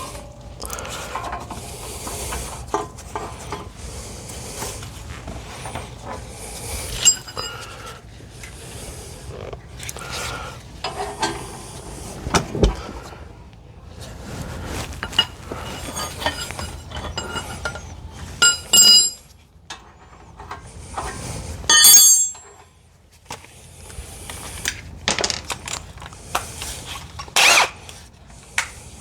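Hand tools working on car parts: irregular metal clinks, knocks and scrapes, with short squeaks and a couple of brief ringing metallic clinks in the second half.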